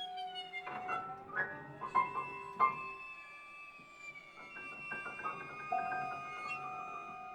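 Piano trio of piano, violin and cello playing contemporary chamber music: long held string notes, one bending in pitch near the start, cut through by a few sharp piano strikes in the first three seconds, then a run of short repeated notes.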